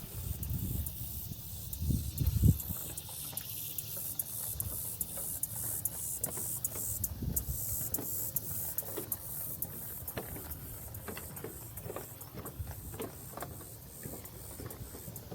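Footsteps along a walking trail, light scattered ticks, over a steady high hiss that pulses rapidly. Wind rumbles on the microphone in the first few seconds, loudest about two seconds in.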